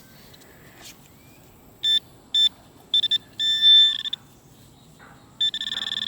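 Garrett ACE 250 metal detector beeping as its coil is swept over a buried target: several short beeps at one steady pitch, then two longer tones.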